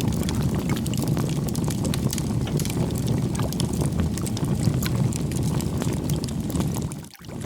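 Campfire burning: a steady low rush of flames with many small, sharp crackles and pops from the burning wood. The sound briefly drops away about seven seconds in, then returns.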